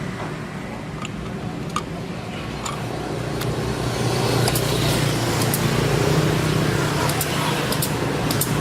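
Mini refrigerator compressor running with a steady low hum while refrigerant is being charged. The hum grows louder about halfway through, and there are a few light clicks.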